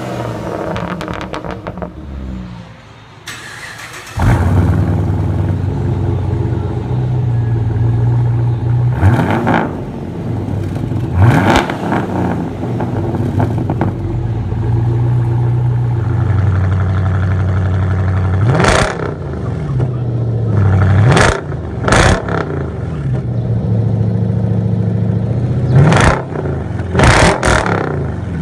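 Car engine idling through a loud aftermarket exhaust, blipped sharply about nine times, each rev rising and dropping quickly back to idle. It opens with the tail of a rev falling away, then a short break before the idle starts.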